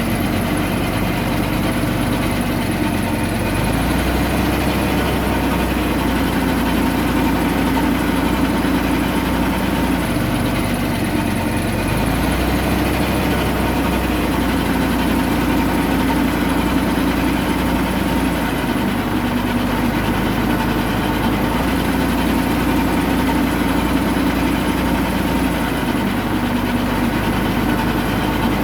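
Komatsu D21A mini bulldozer's diesel engine running steadily, its low note shifting in level every few seconds.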